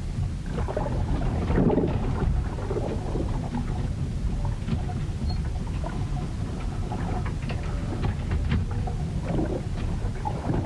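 Storm at sea heard aboard a ship: a steady low rumble of wind and water against the hull, with scattered knocks and creaks. Louder washes of water come about two seconds in and again near the end.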